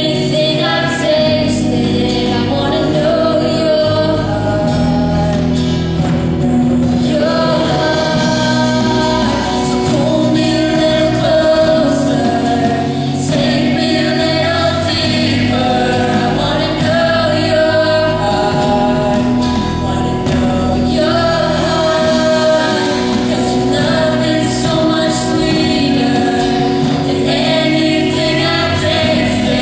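A vocal group singing a song in harmony, steady and continuous, with held notes changing every second or so.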